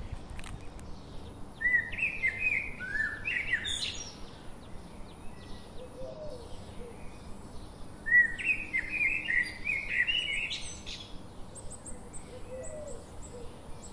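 A bird singing: two bouts of quick, curving chirped notes, one starting about two seconds in and the other about eight seconds in.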